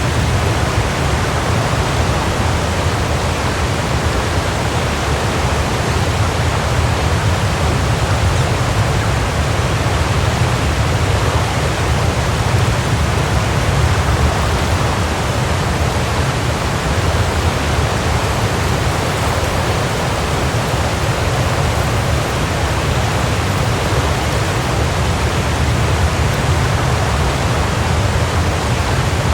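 Waterfall: water falling and splashing in a steady, unbroken rush, strongest in the low end.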